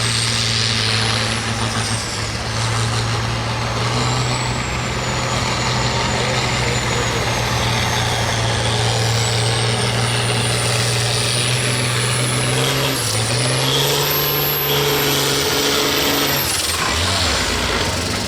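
Turbocharged diesel hot stock pulling tractor running flat out under load on a pull, with a high turbo whistle over the engine. The engine note and whistle rise about three-quarters of the way through, then cut off shortly before the end.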